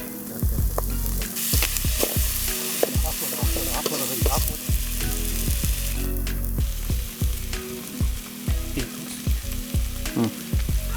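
Chicken pieces in masala sizzling in a hot pan, stirred by a spatula that scrapes and knocks against the pan again and again.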